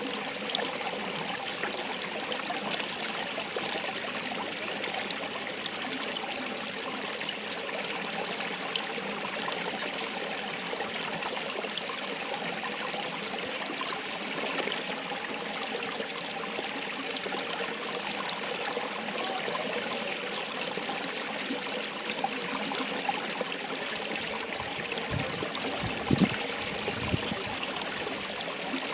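Running water of a stream, a steady rushing trickle. A few low thumps occur near the end.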